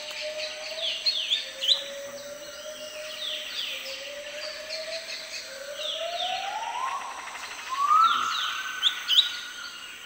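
Forest birds calling: clusters of short, quick falling chirps repeat every second or two, over long whistled notes that rise slowly, glide up in the middle and hold higher near the end.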